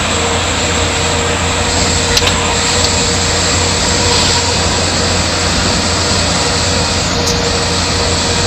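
Mitsubishi Canter light truck driving at high speed: a steady, loud mix of engine, tyre and wind noise with a faint steady whine.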